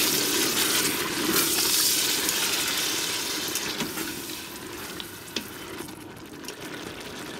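Chicken, onion, tomato and yogurt sizzling in oil in an Instant Pot's stainless steel inner pot on sauté, stirred with a silicone spatula. The sizzle is strongest at first and dies down after about four seconds, with one light click a little after five seconds.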